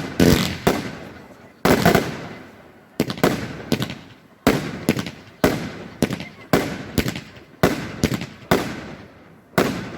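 Celtic Fireworks consumer fireworks going off in a rapid series of sharp bangs, often two or three in quick succession, each echoing away before the next.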